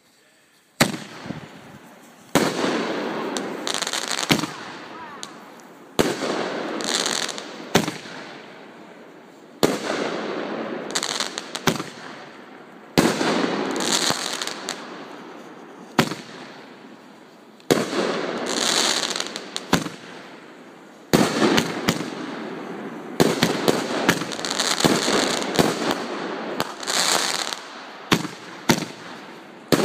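Aerial firework shells bursting in a finale barrage, starting about a second in: sharp bangs every one to three seconds, each trailing off slowly, with crackling from gold crackle stars after many of the bursts.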